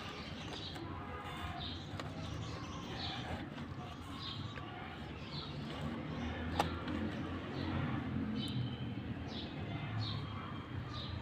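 Small birds chirping repeatedly in short, falling notes over a low background rumble, with a single sharp click about six and a half seconds in.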